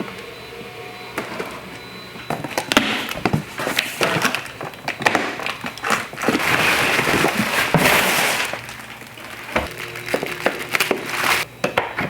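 Objects being handled in a small space: scattered knocks and clicks, with a longer stretch of rustling in the middle.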